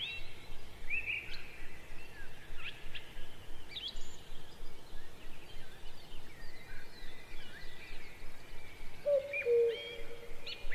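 Birds chirping and whistling in short rising and falling calls. About nine seconds in, a lower call joins in short held notes.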